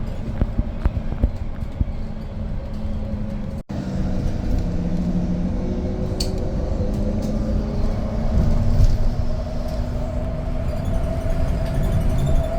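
A vehicle running, a steady low rumble with a faint hum over it, broken off briefly a little under four seconds in.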